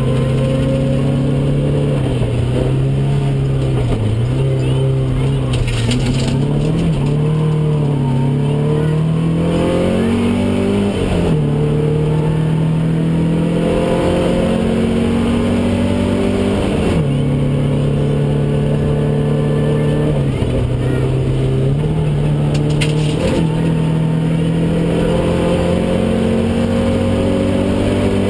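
Opel Ascona i2000 rally car's four-cylinder engine heard from inside the cabin at racing pace. The engine note rises and falls through corners in the first third. After that it climbs steadily, with sharp drops in pitch at gear changes about eleven, seventeen and twenty-three seconds in.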